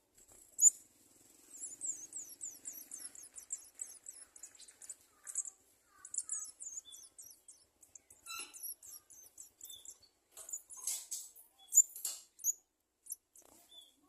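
Garden sunbirds chirping: very high, thin chirps, first a rapid run of about six a second, then scattered chirps with a few sharper, louder ones.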